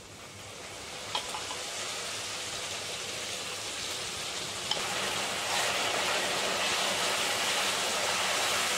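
Cooked meat ladled into hot oil in a metal kadhai, sizzling and frying, the hiss growing louder as more meat goes in and is stirred. Two light clinks of the ladle on the pan.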